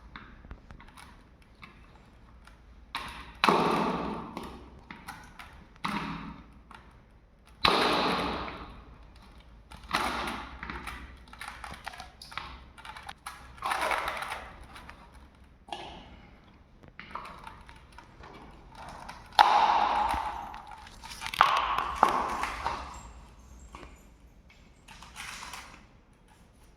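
Hard parts and tools being handled during ceiling fan installation: a dozen or so separate clinks, knocks and clatters at irregular intervals, each ringing briefly.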